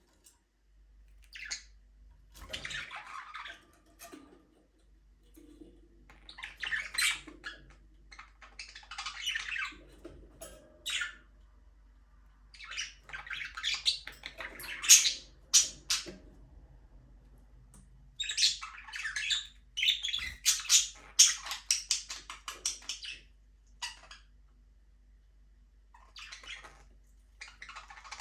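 A flock of budgerigars chirping and chattering in bursts of a second or two, with short pauses between.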